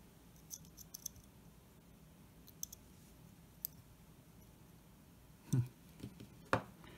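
Light clicks and taps of hands handling the small parts and wires of an HO scale model locomotive chassis: a few faint clicks over the first four seconds, then a dull thump about five and a half seconds in and a sharper click about a second later.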